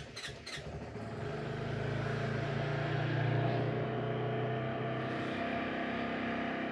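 Honda CRF450RL's single-cylinder four-stroke engine on a cold start in freezing temperatures, choke knob pulled out. It turns over and runs steadily for several seconds, building up over the first couple of seconds.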